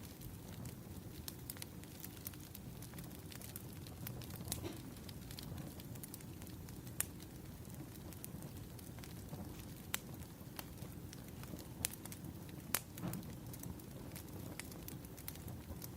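Wood fire crackling: a low steady rumble of burning logs with scattered sharp pops and snaps, a few louder ones in the second half.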